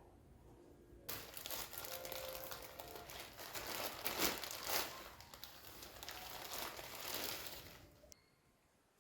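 Thin wrapping such as paper or plastic being handled and crumpled: a dense crinkling that starts about a second in and stops shortly before the end.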